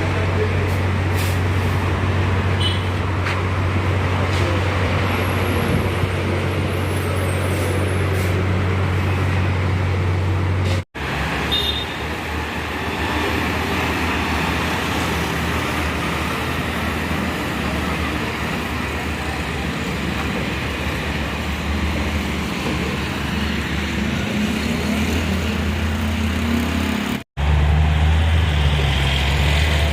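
Heavy vehicle engines running steadily with a strong low hum, in three stretches that change abruptly, about 11 and 27 seconds in.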